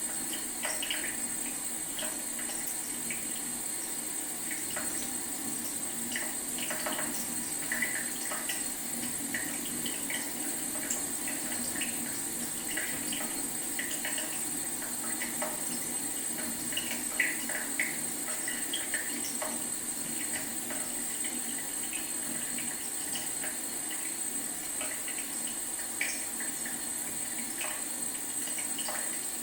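Leaky faucet dripping: irregular, short plinking drips over a steady hiss of trickling water, with a faint steady high whine underneath.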